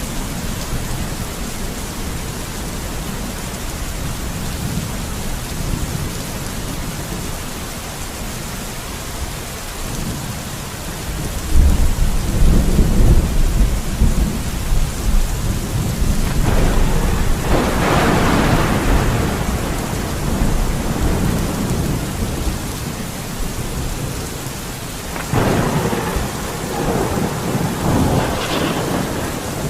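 Steady heavy rain with thunder rolling through it: a deep rumble builds about a third of the way in and runs for around ten seconds, with a sharper crack in the middle, and a second roll of thunder follows near the end.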